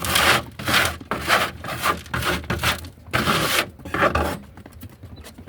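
A series of rough scraping strokes, about two a second, with one longer stroke near the middle. The strokes stop shortly before the end.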